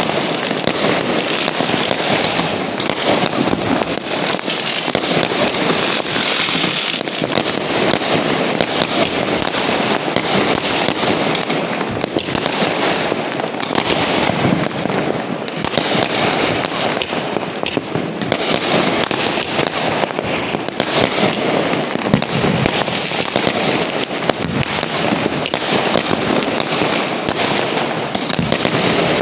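Many firecrackers and fireworks going off at once in a dense, unbroken crackling barrage.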